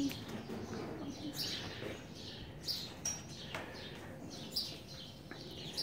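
Small birds chirping, short high downward chirps roughly once a second over faint barn background noise.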